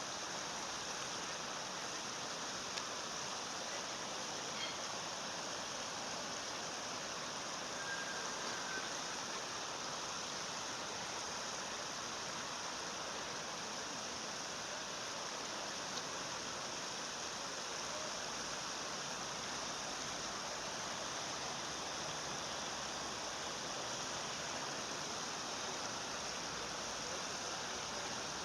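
Steady rushing of flowing stream water, with a faint brief high note about eight seconds in.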